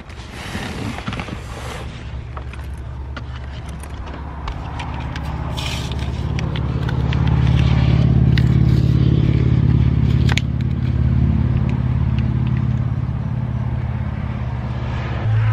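A motor vehicle's engine runs with a steady low hum that grows louder toward the middle and then eases off. At the start a bag is rustled and scraped while items are packed into it, and a few sharp clicks sound.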